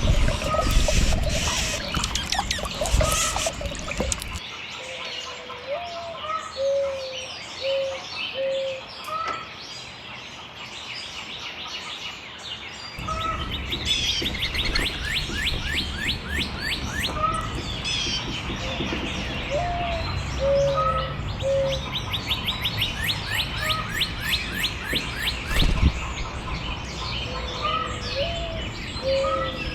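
Several songbirds chirping and singing at once: short repeated whistled notes alongside fast runs of trilled notes. A rushing noise at the start cuts off about four seconds in.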